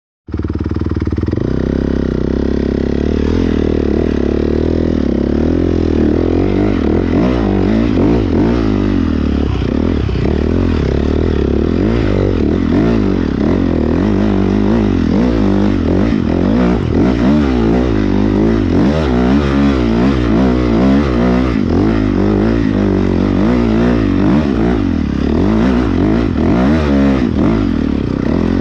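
Off-road motorcycle engines running and revving, the pitch rising and falling again and again.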